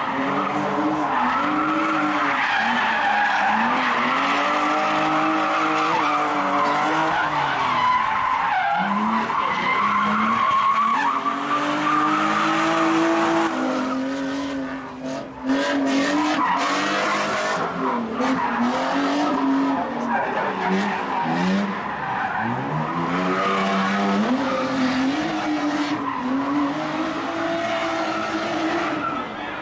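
Drift cars' engines revving hard, their pitch repeatedly climbing and dropping as the drivers work the throttle through the drifts, with tires skidding and squealing. The noise dips briefly about halfway through, then picks up again.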